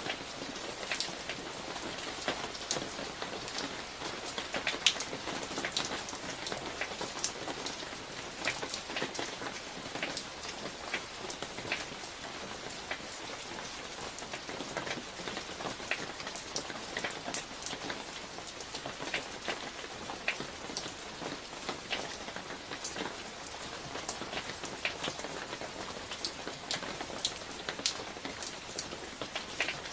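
Steady rain falling during a summer thunderstorm, with many individual drops striking close by as sharp ticks over the even hiss of the downpour.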